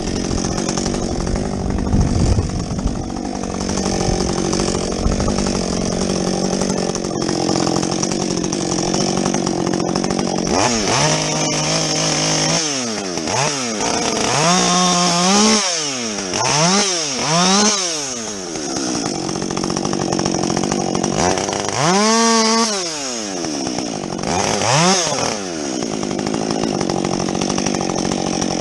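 Muffler-modded Husqvarna 562XP two-stroke chainsaw running throughout, revving up and dropping back again and again through the middle and twice more near the end, as it cuts limbs off a felled tree.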